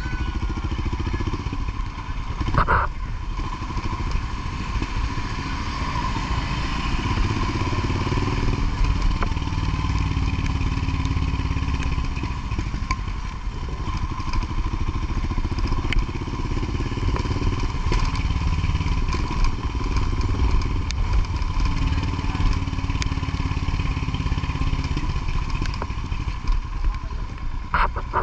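Motorcycle engine running steadily with a low rumble that rises and falls a little, a thin steady whine above it, and a few clicks about three seconds in and near the end.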